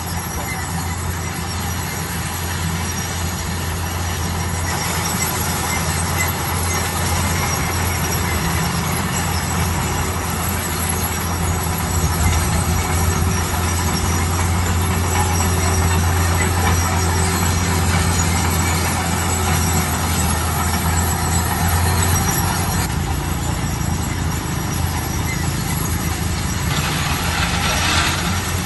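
Heavy construction machinery running: a steady, loud diesel engine drone with metallic squealing and clatter above it, and a short louder noisy surge near the end.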